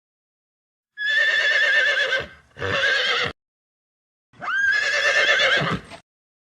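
A horse whinnying three times, loud and quavering, the middle whinny short.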